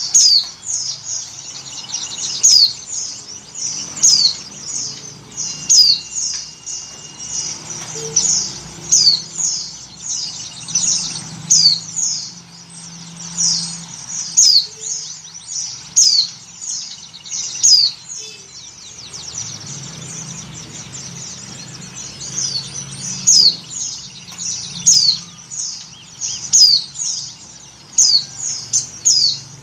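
White-eyes (pleci) giving short, high, falling chirps over and over, about one to two a second; the recording is presented as a female in breeding condition calling to males.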